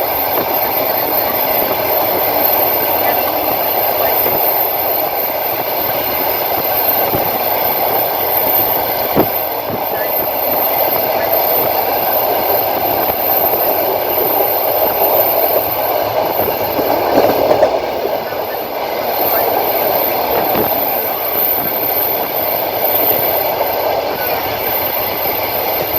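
Passenger train running along the line, heard from a carriage window: a steady rumble of wheels on rail, broken by a few knocks, with a constant thin high whine above it.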